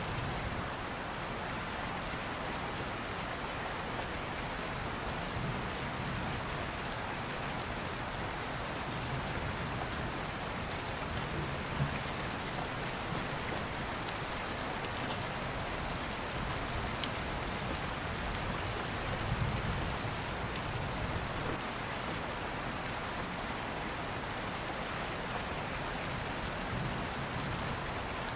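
Steady heavy rain falling on a surface, with low thunder rumbling that swells and fades in the background, and a few sharp clicks.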